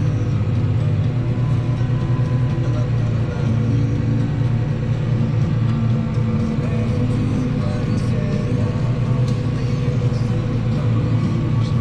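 Large diesel farm-machinery engine running steadily at constant speed, a deep even hum with no change in pitch.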